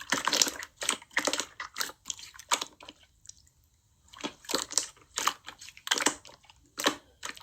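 Slime being squished and pressed by hand: a run of short, irregular sticky sounds, with a pause of about a second in the middle.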